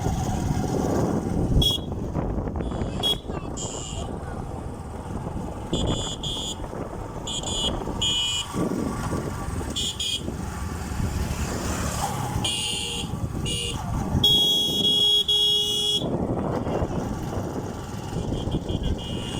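Riding on a motorcycle with steady engine, wind and road noise, while vehicle horns honk in many short toots and one longer blast about fourteen seconds in.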